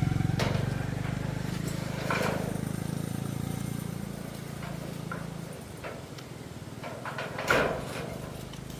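A low engine hum fading gradually, with a few short knocks, the loudest near the end.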